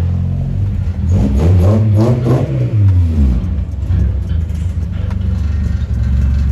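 Rebuilt 1.4-litre four-cylinder engine of a VW Polo, revved once: it rises from idle about a second in and falls back by about three seconds, then idles steadily.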